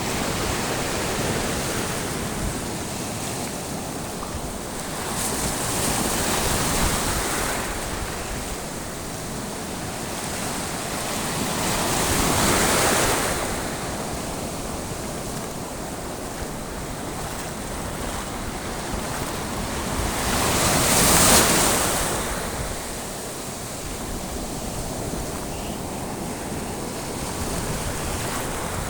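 Sea waves washing in, the surf swelling louder three times about seven or eight seconds apart, over a steady rush of water and wind on the microphone.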